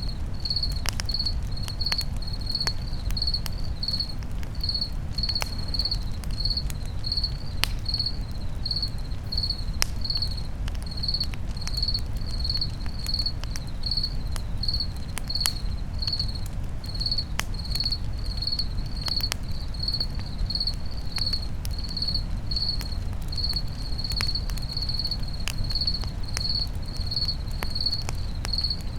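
Crickets chirping in a steady, even rhythm, a little over one chirp a second. Under them a campfire crackles with scattered sharp pops over a low, steady rumble.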